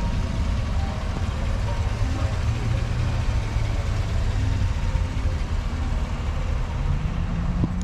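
Motor vehicle engine idling, a steady low rumble with a haze of outdoor background noise.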